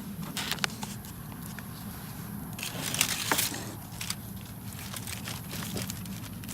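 Crinkling and crackling with scattered small clicks as aluminium foil and the charred skin of a foil-baked onion are handled and cut open, busiest about three seconds in.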